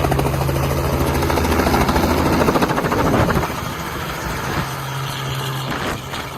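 Helicopter running, its rotor beating in a fast, even chop over a steady engine hum. The sound gets quieter about three seconds in.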